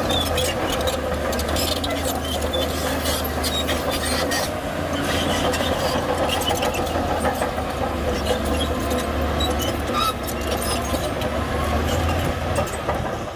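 Shantui bulldozer's diesel engine running steadily, with its tracks clicking and squeaking over the engine note.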